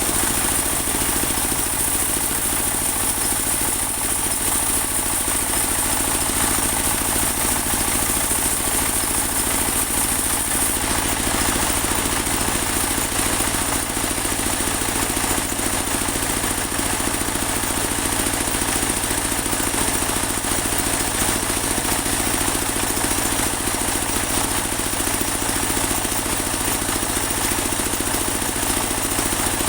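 Engine-driven portable band sawmill running steadily, its motor at a constant speed, with a high whine that fades about a third of the way through.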